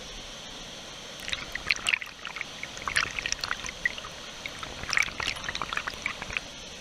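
Water splashing and trickling close by in quick irregular spatters, from about a second in until near the end, over the steady rush of a waterfall.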